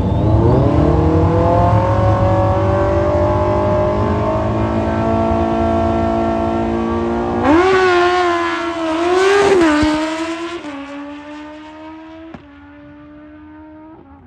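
Drag-racing sportbike engine at full throttle: its pitch climbs quickly at first, then holds high and keeps creeping up. About eight and nine and a half seconds in it surges and drops twice, then the engine fades and falls in pitch as the bike backs off.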